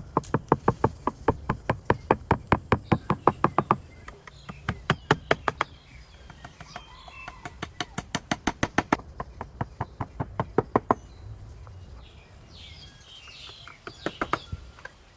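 Hammer striking in quick, even runs of about six blows a second, several runs with short pauses between, as nails are driven into wood. Birds chirp faintly near the end.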